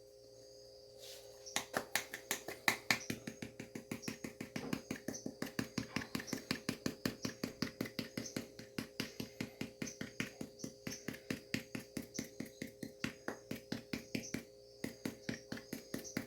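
Rapid light tapping, about four taps a second, as ground cinnamon is tapped out to dust the finished canjica. The tapping starts about a second and a half in and breaks off briefly near the end. A faint steady hum runs underneath.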